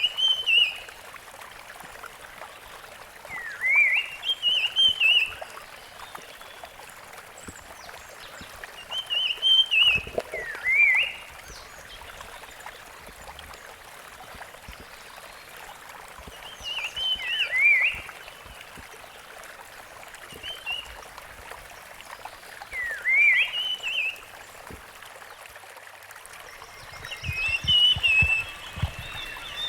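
Rusty-fronted Barwing singing short phrases of quick, rising, warbled notes, repeated every four to seven seconds over a steady background hiss. Near the end the phrases come closer together.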